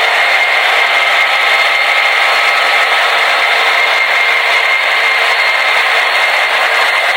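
The onboard sound decoders of several HO scale DCC diesel locomotives (SD70ACe, SD70M, C44-9W, AC6000CW, Dash 8-40C, SD40-2) play diesel engine sound all at once through tiny speakers. Together they make a steady, dense, thin noise with no bass, and a high tone is held through it.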